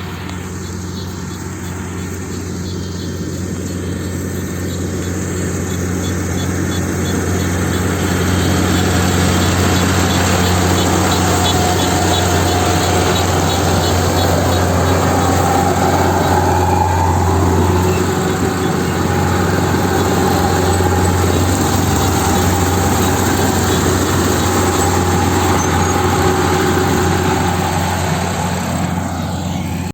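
Engine of a rice-harvesting machine running steadily, with a low hum under broad mechanical clatter. It grows louder over the first several seconds as the machine draws nearer, then holds level.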